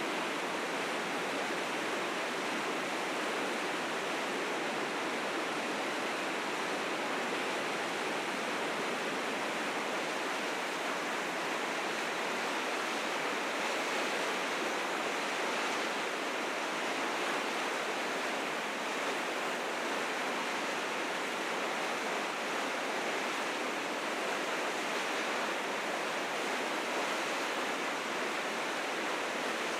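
River rapids running high with spring meltwater, a steady, even rush of fast water.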